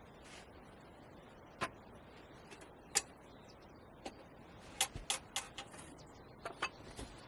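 A string of irregular, sharp clicks and light knocks over a faint background hiss: single ticks a second or more apart at first, then a quicker cluster of clicks in the second half.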